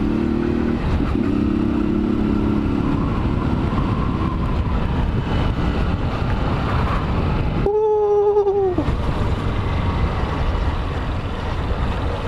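Honda CG 160 Titan single-cylinder motorcycle engine running on its stock exhaust while riding, under steady wind noise on the microphone. About eight seconds in, the rumble drops out for a second while a short steady tone sounds, sliding down at its end.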